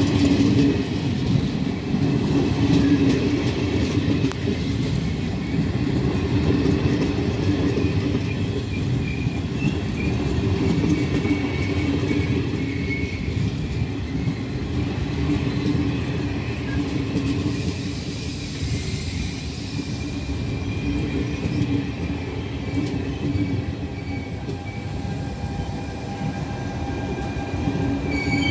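Locomotive-hauled passenger train rolling slowly past close by: a steady rumble of wheels on the rails, with faint high squeals at times.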